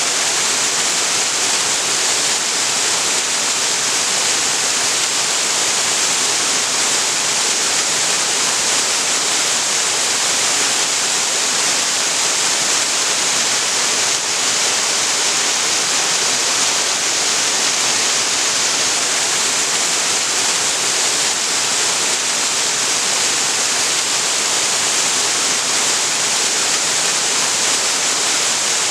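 Waterfall pouring steadily into a pool, a constant loud rush of falling water with no change.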